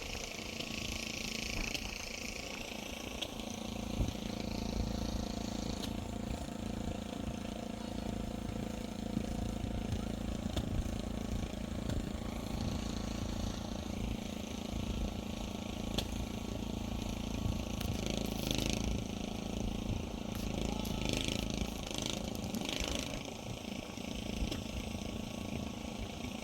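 An engine running steadily at a constant speed, a low even hum, with a few short hissing sounds about two-thirds of the way in.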